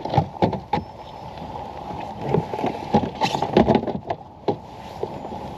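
A string of irregular knocks and thumps on a kayak as a bass is landed and handled aboard, the knocks bunching together about two to four seconds in.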